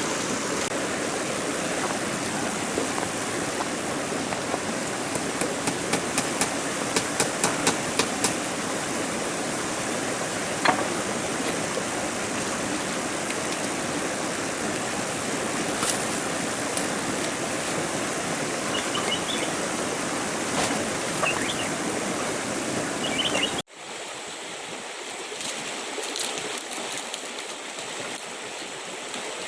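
Running stream water, a steady rushing flow, with a quick run of sharp clicks or knocks about a fifth of the way in. Near the end it cuts abruptly to a quieter, thinner flow.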